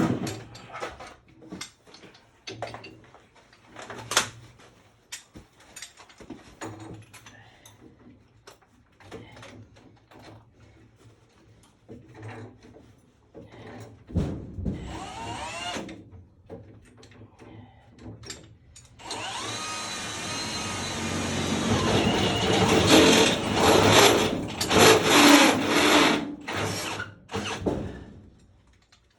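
Cordless power drill running in two bursts: a short spin-up about halfway through, then a longer, louder run of several seconds near the end. Scattered knocks and clatter of work come before.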